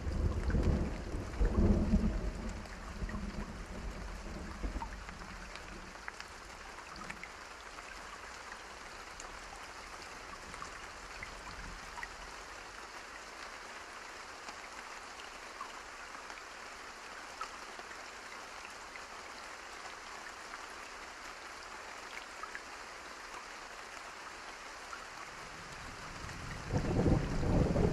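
Steady rain falling, with a roll of thunder fading over the first few seconds and another rising near the end.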